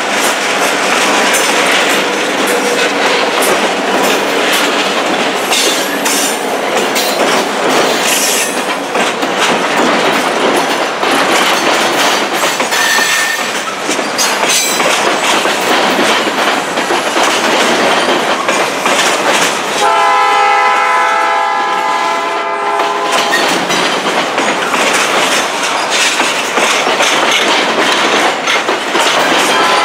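A train passing close by, its wheels clattering and rumbling over the rail joints. A locomotive's air horn sounds one chord-like blast of about three seconds roughly two-thirds of the way through, and starts blowing again right at the end.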